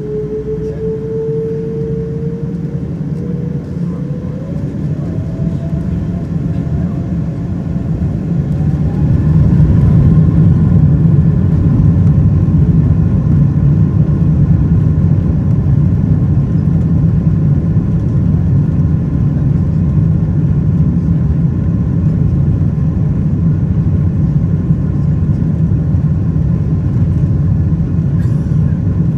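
Boeing 777-200ER's Rolls-Royce Trent engines spooling up to takeoff thrust, heard from inside the economy cabin: a whine rises in pitch over the first ten seconds as the rumble grows louder, then a steady loud rumble as the jet rolls down the runway.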